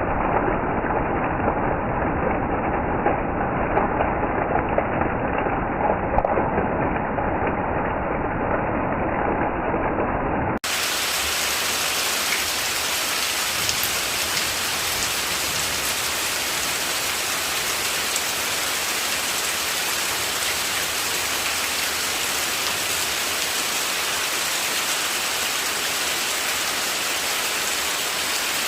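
Steady rain falling, an even hiss. About ten seconds in there is an abrupt cut: before it the rain sounds muffled and dull with scattered taps, and after it the rain is bright and even.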